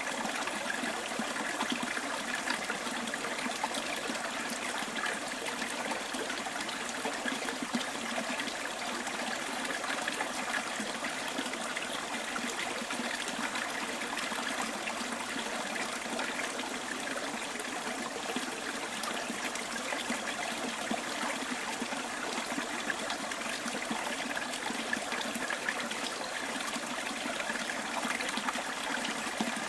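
Small stream flowing steadily, an even trickling and babbling of water.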